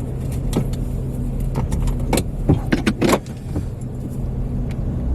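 Car engine idling steadily, with scattered light clicks and rattles over it, like keys jangling.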